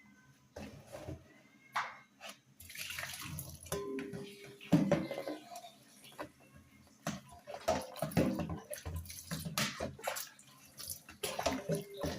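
Plates being washed by hand in water: irregular splashing and sloshing with short knocks of dishes.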